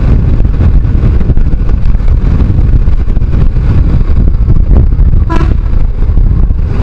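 Riding noise from a motorcycle at speed: a loud, steady rush of wind and road noise on the rider's microphone, with the bike's engine underneath.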